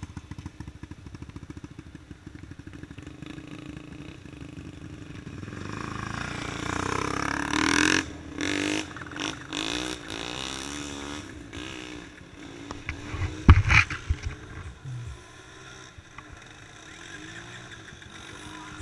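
A motor vehicle's engine running with a fast even pulse, then swelling and falling away about six to eight seconds in, as a vehicle passes. A few sharp knocks come a little past halfway.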